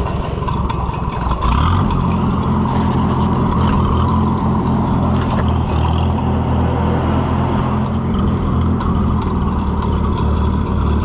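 Farm tractor engine running, rising in speed and loudness about a second and a half in, then holding a steady, even note.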